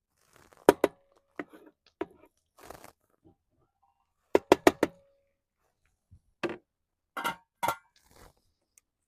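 Cookware clanking and knocking as chili is dished up, with short scraping and rustling between; a quick run of four sharp knocks comes about four and a half seconds in.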